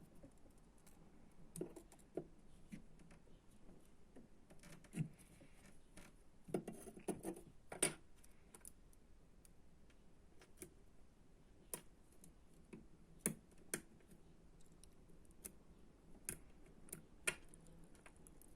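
Irregular small clicks and taps of hand tools and electronic parts being handled during electronics kit assembly, a few of them sharper and louder.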